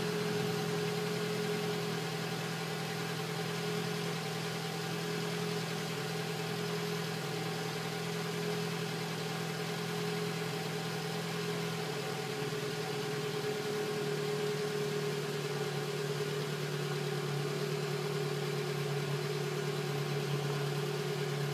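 Ford Focus's 1.8-litre Duratec HE four-cylinder engine idling steadily, heard from under the car. Its note settles slightly lower about halfway through.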